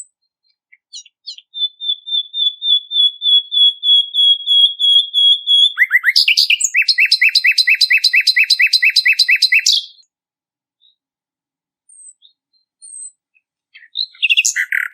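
Songbird song used as masteran training material: a fast, even high trill that gives way about six seconds in to a louder, rapid repeated chattering phrase, which stops abruptly near the ten-second mark. A few short chips follow, then another rapid chattering phrase starts near the end.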